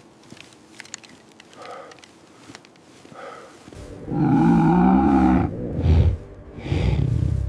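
A large wild animal roaring: faint scattered clicks at first, then about four seconds in a loud, drawn-out roar and two shorter roars after it.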